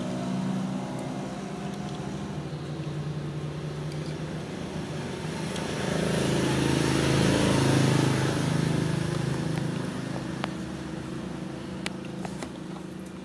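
A motor vehicle engine running, growing louder to a peak about seven to eight seconds in and then fading, as a vehicle passes by. A few light clicks sound over it.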